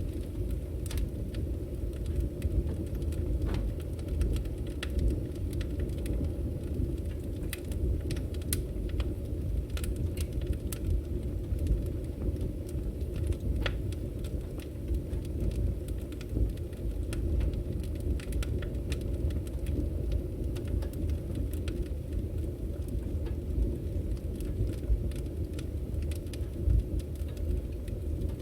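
Firewood burning in an open fire: a steady low rumble of the flames with frequent scattered crackles and pops from the logs.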